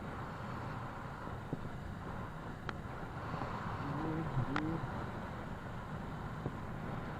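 Steady road and wind noise of a motorcycle on the move, with two sharp high clicks about two seconds apart midway through.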